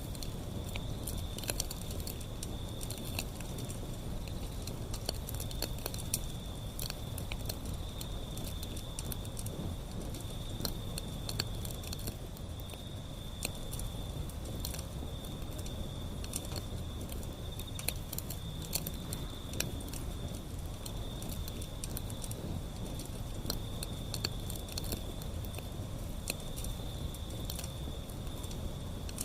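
Wood fire burning: dense, irregular crackles and small pops over a steady low rumble of the flames, with a faint steady high-pitched tone running underneath.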